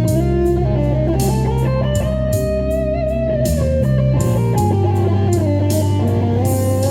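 Electric guitar playing a lead line of held, bending notes over a backing track with bass and drums.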